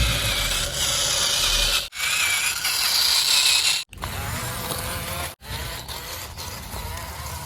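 Small electric motors and plastic gearboxes of a remote-control toy construction vehicle whirring and grinding. The sound stops abruptly about every two seconds and is louder in the first half.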